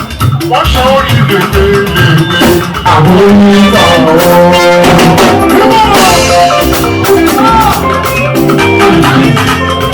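Loud live party band music: drums and percussion keeping a steady beat under horn lines and a singing voice.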